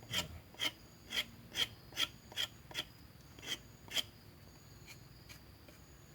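Knife blade scraping the bark off the base of a durian branch cutting: about ten quick rasping strokes, two or three a second, that stop about four seconds in.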